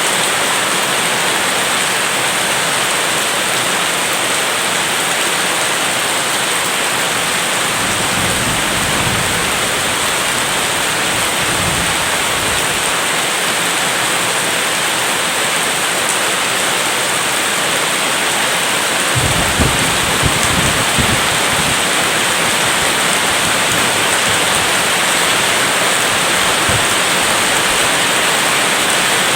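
Steady heavy rain falling, with low rumbles of distant thunder about eight seconds in, again around twelve seconds, and a longer one a little before the twenty-second mark.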